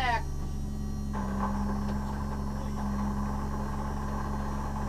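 Nissan RB24 straight-six idling as a steady low hum. About a second in, a slightly higher steady drone joins it.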